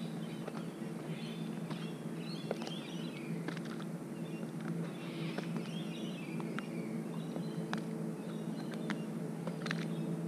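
Birds chirping over a steady low hum, with scattered light ticks and clicks. The chirping comes twice: from about a second in to three and a half seconds, and again around five to six and a half seconds.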